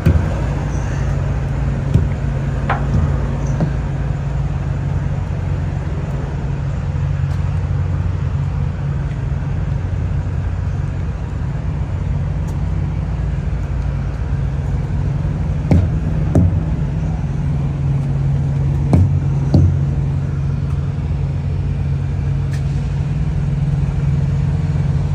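Semi truck's diesel engine idling steadily, with a few short knocks or clicks around it.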